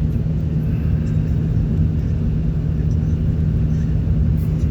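Car driving along the road: a steady low engine and tyre rumble with a constant low hum.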